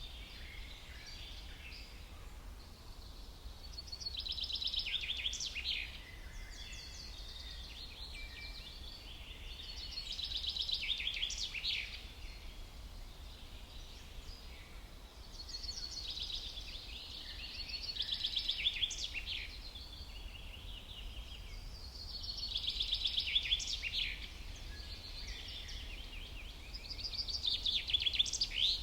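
A songbird singing a rapid trilled phrase about two seconds long, repeated about every six seconds, five songs in all, over a faint steady low rumble.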